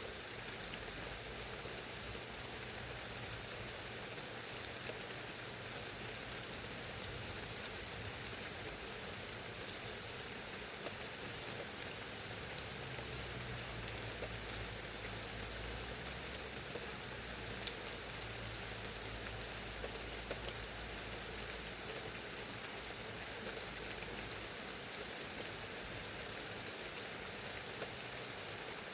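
Steady rainfall, with scattered drops ticking on a surface and a low rumble underneath.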